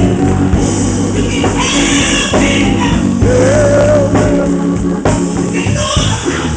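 Gospel song performed with a band: a lead voice singing a held, wavering note over bass, guitar and drums.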